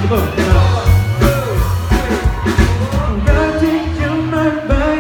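Live pop-rock band music with singing over a steady drum beat; the voice holds a long note in the second half.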